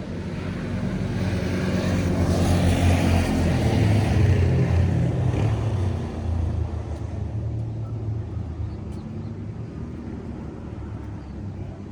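A motor vehicle's engine passing by: a low hum with hiss that builds to a peak about four seconds in, then fades away.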